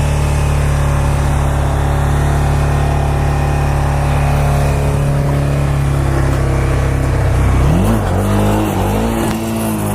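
Motorcycle engine running at a steady idle. Near the end it revs up, holds the revs briefly, then drops back.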